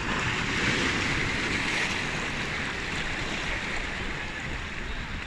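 Sea waves washing in: a wave swells up in the first couple of seconds, then eases off into a steady wash.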